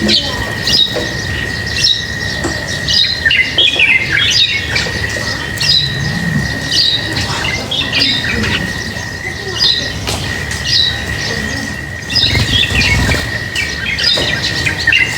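Many small birds chirping at once, with quick overlapping short calls throughout. A steady high thin tone runs beneath them.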